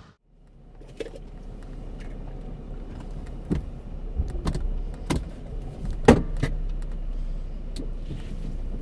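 Inside the cabin of a Mercedes-Benz W124 sedan: a steady low hum with about a dozen scattered sharp clicks and knocks, the loudest about six seconds in.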